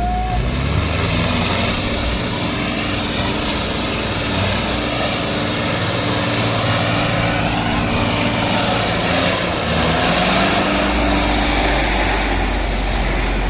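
Diesel tractor engines running hard under load, pitch climbing in the first second and then holding a steady, loud drone.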